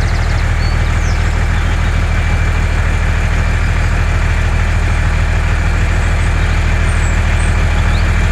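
A low engine note idling steadily and evenly, with a faint high whine above it.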